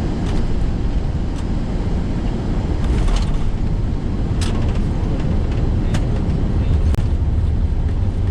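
Airbus A340-300 on its landing rollout, heard from the cockpit: a loud, steady low rumble from the runway and engines, broken by a handful of short sharp clicks or knocks.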